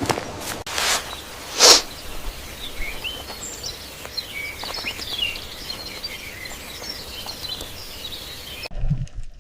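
Small birds chirping in short high calls over a steady outdoor background noise, after a few brief swishes in the first two seconds; the sound cuts abruptly to something quieter near the end.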